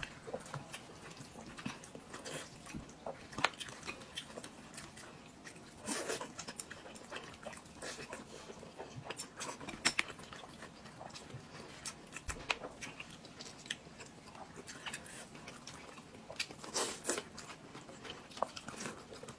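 Close-up mouth sounds of a person chewing and biting soft food, a thin pancake wrap with stir-fried vegetables. Many small wet clicks, with a few louder bursts of chewing.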